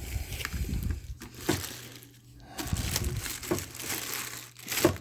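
Plastic packaging crinkling and rustling as it is handled, with a few sharp knocks; the loudest comes near the end.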